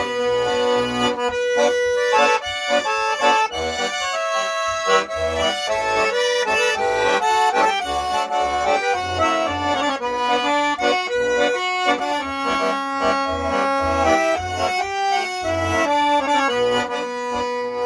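Accordion playing an instrumental interlude of a song: sustained melody notes over short, regularly repeating bass notes.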